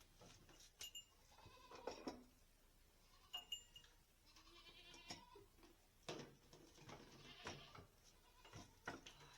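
Goat kids bleating faintly several times, calling for their mothers, with a few sharp clicks and light clinks in between.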